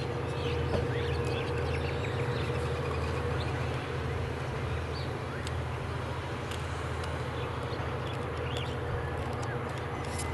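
Coal train of hopper wagons rolling along the track, a steady low rumble with a faint steady whine, while small birds chirp.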